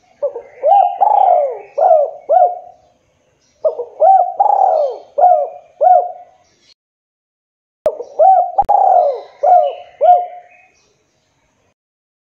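Spotted dove (tekukur) cooing: three phrases of about five hooting notes each, sliding up and down in pitch, with a short pause between phrases.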